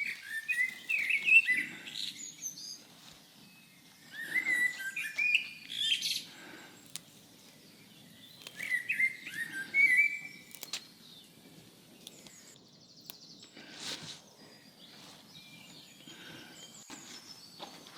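A songbird singing three phrases of quick, high chirps, each about two seconds long and about four seconds apart, followed by fainter chirps.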